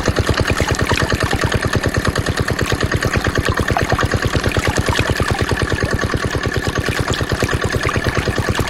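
Small single-cylinder diesel engine driving a water pump, running steadily with a fast, even beat.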